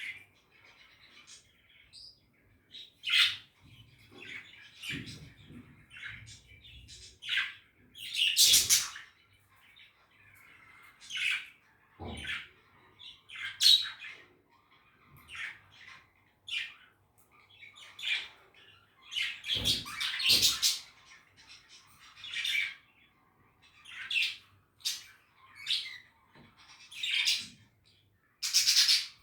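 Budgies chirping and chattering in a run of short, irregular calls, some louder squawk-like bursts among them.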